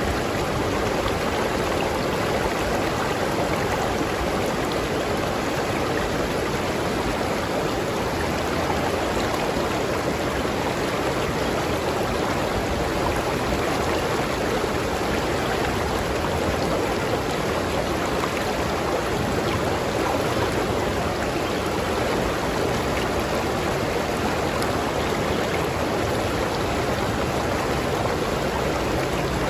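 River stream flowing steadily over rocks, a continuous rushing and burbling of water.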